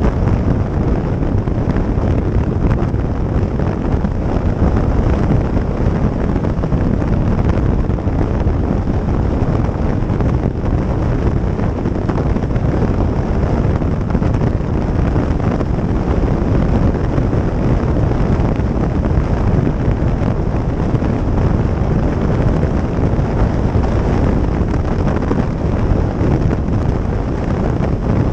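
Steady wind rush buffeting the microphone on a moving motorcycle, with the motorcycle's running blurred into it.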